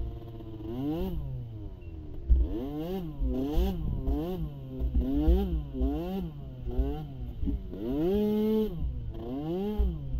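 A pee wee ATV's small engine being revved up and down over and over, about once every 0.7 seconds, with one longer hold at high revs about eight seconds in. Irregular low thumps sound under it.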